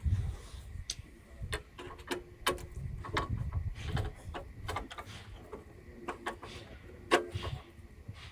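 Irregular metallic clicks and taps, a few with a short ring, from hand tools working on a small engine while a dipstick tube is being fastened in place.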